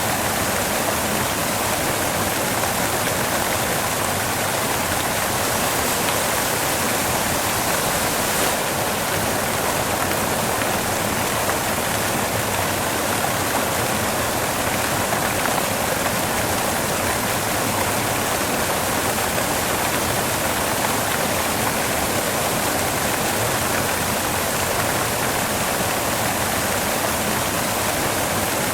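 Steady white noise: an even, unbroken hiss with no changes in level.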